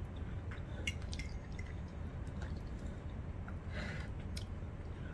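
Wet chewing of gravy-soaked poutine, with small mouth clicks and smacks scattered through it, and a short scrape of a fork through the food on the plate about four seconds in, over a low steady hum.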